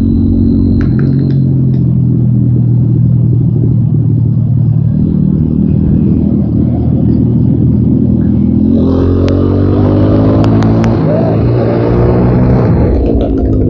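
TVS Apache RTR 200 4V's single-cylinder engine running while the bike is ridden. About nine seconds in it revs higher and pulls harder for a few seconds, then eases back near the end, with a few short clicks during the pull.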